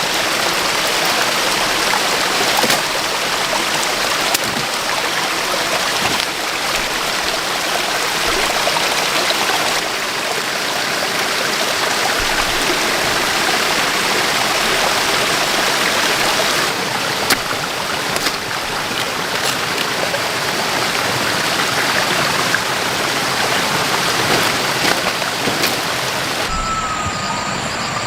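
Steady rush of running water, like a forest stream, with a few sharp clicks over it. Near the end the sound cuts abruptly to a quieter background with a thin, steady high tone.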